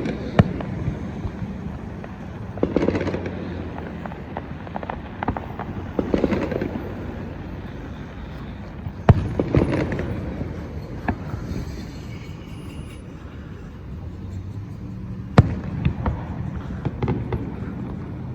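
Fireworks going off: dull booms every few seconds, mixed with sharp cracks, the loudest crack about halfway through and another near the end.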